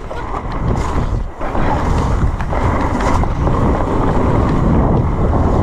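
Wind rushing over the microphone of a rider's camera as an e-mountain bike descends a wet, muddy trail at speed, a loud, steady rushing with a brief dip about a second and a half in.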